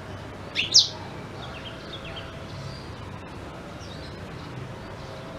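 Blackthroat (black-throated canary) calling: one loud upward-sweeping note a little under a second in, then a few faint short chirps, over a steady low background hum.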